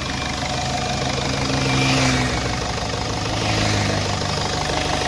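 Ford Figo engine idling steadily after an overhaul, its speed rising slightly twice, about two seconds in and again near four seconds. It runs smoothly with no knock, which the mechanic takes as the sign of a good rebuild.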